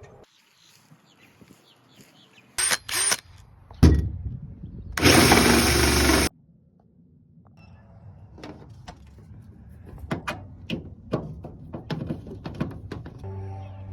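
Work noises: two short loud bursts and a hard knock, then a loud noisy burst lasting about a second, followed by a string of knocks and taps. Music comes in near the end.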